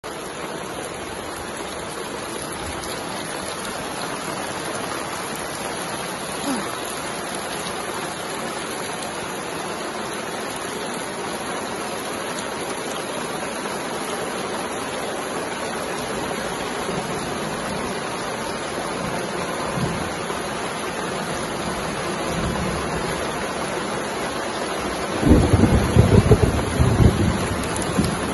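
Rain falling steadily as an even hiss on the ground and leaves. About 25 seconds in, a loud low rumble of thunder rolls for a few seconds.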